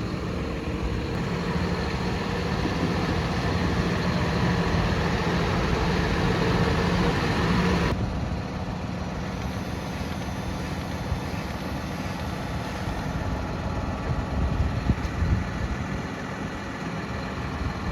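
Tractor engine running steadily at low revs while a tedder is hitched on. About eight seconds in, the engine sound changes abruptly and drops a little in level, and a few light knocks come late on.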